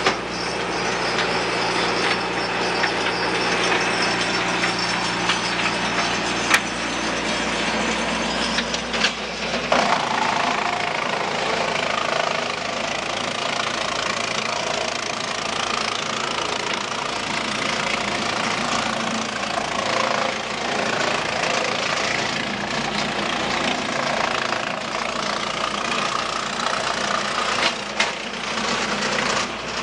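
An engine running, with a steady low hum for the first nine seconds or so, after which the sound turns noisier and rougher.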